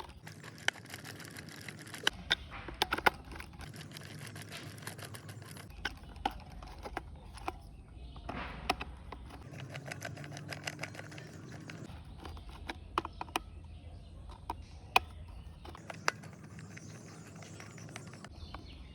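Screws being tightened into a plastic toy car body with a small screwdriver: scattered sharp clicks and light scraping at irregular intervals.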